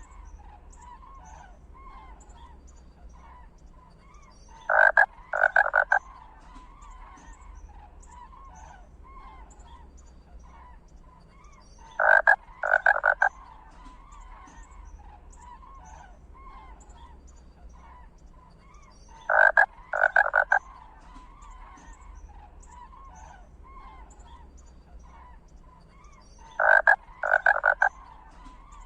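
Animal calls: a loud croaking double call, two short pulses in quick succession, repeating four times at even spacing of about seven seconds, over a steady background of faint chirping.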